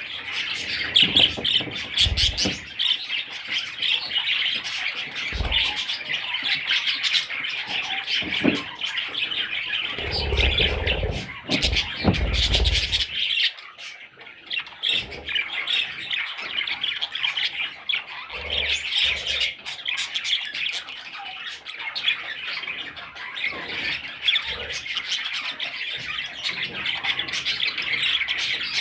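Budgerigars chirping and squawking in a dense, continuous chatter, with a few low bumps partway through.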